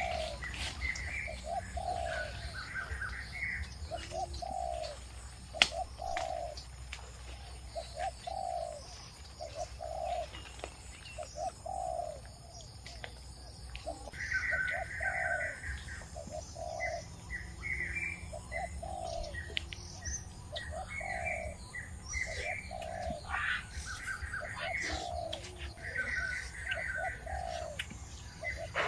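Birds calling: a low note repeated about once a second, with bursts of higher chirping from another bird, over a steady low rumble. One sharp click about five and a half seconds in.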